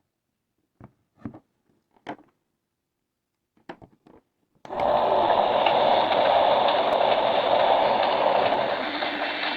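A few separate plastic clicks and taps, then, about halfway through, the small electric motor of a toy slime washing machine switches on and runs with a steady whir.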